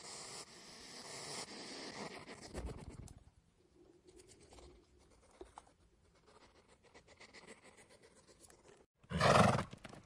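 A hedgehog snuffling softly in grass for the first few seconds, then quieter. About nine seconds in comes one loud, short snort from a horse.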